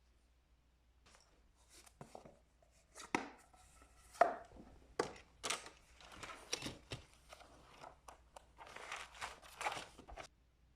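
Irregular knocks, clicks and rustles of objects being handled in a small room, spaced unevenly rather than in a steady rhythm.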